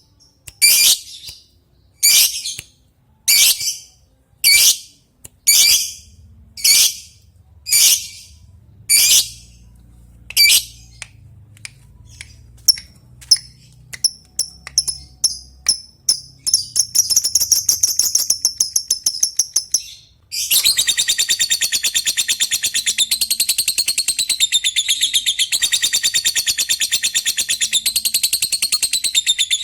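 Lovebird calling: about nine loud separate calls a little over a second apart, then short ticking chips coming faster and faster ('ngetik', a call to a rival). About two-thirds in, these run into a long unbroken rapid chattering trill, the 'ngekek' song.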